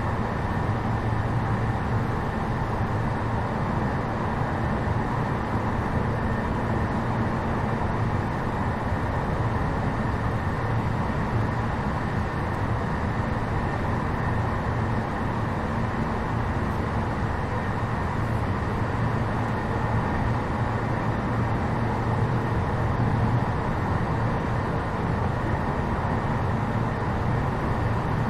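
Steady in-car sound of a JR East E233 series 7000-subseries electric train: a continuous mechanical hum with a few held tones and no sudden events.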